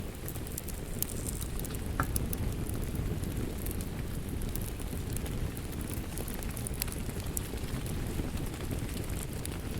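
Wood fire crackling, with scattered sharp pops and one louder pop about two seconds in, over a steady bed of rain.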